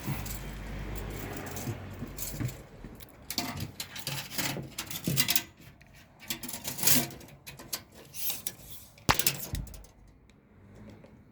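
Clicks, rattles and rustling of a steel tape measure being pulled out, positioned and handled in a van's empty metal cargo area, with one sharp click about nine seconds in. A low hum fades out in the first second or two.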